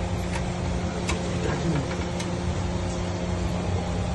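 Steady mechanical hum with a constant low drone and a few faint ticks.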